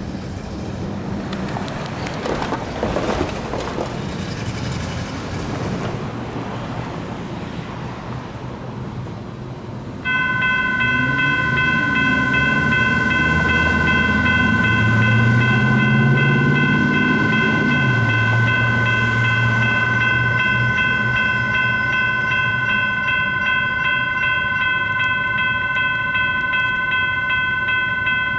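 Street traffic noise, then about ten seconds in a US&S E-Bell electronic railroad crossing bell starts ringing and rings steadily on, its warning that a light rail train is approaching. Under the bell a vehicle's motor note rises and then holds.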